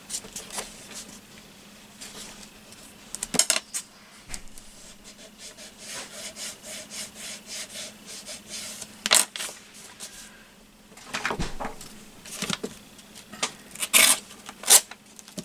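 Paper being handled and rubbed on a table for a collage: a stretch of short back-and-forth rubbing strokes in the middle, with several sharp knocks and rustles.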